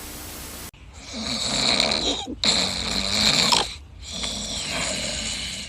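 A man snoring heavily: three long, rasping snores in a row. A short hiss comes before them at the start.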